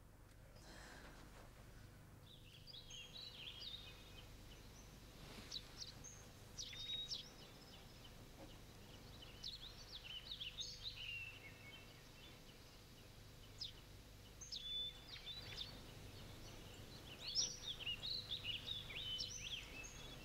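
Small birds chirping in short, scattered bouts of quick sliding notes, over a faint steady background hum.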